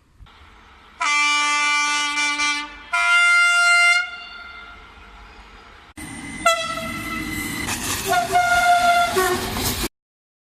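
Train horn sounding two blasts, the second following just after the first. Then the loud rushing noise of a train passing close, with more horn tones sounding over it, cutting off suddenly near the end.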